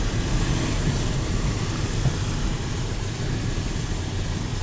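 Steady engine and road noise from inside a moving car's cabin, a low rumble with no sudden events.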